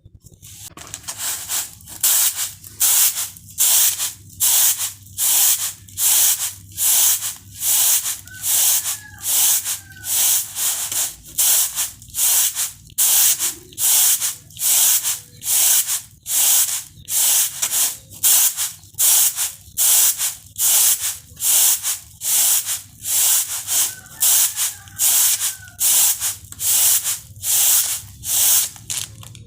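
Rice being winnowed on a woven bamboo tray (tampah): grains swish and rub across the tray with each toss, in a steady rhythm of hissing strokes.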